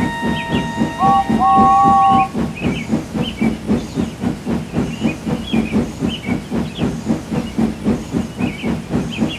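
Steam tank engine whistle blowing for about two seconds, stepping up in pitch partway, over the engine's steady chuffing at about three puffs a second as it runs.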